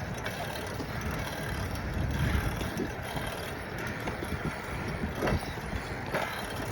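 Bicycle being ridden, with a steady low rumble of wind on the microphone and tyre noise and a few faint clicks.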